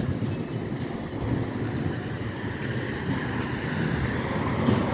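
GP-series diesel switcher locomotive running steadily: a low, even engine rumble.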